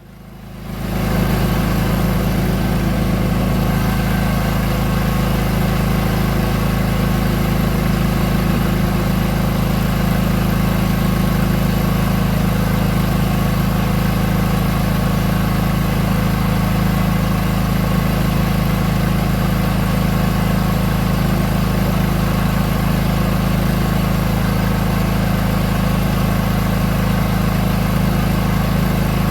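Homemade pulse jet engine running steadily: a loud, low buzz that comes in about a second in and holds at an even pitch.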